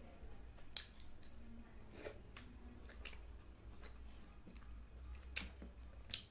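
Close-up chewing of rice, dal and roti, with short, sharp wet mouth clicks and smacks about once a second. The loudest smack comes about five and a half seconds in.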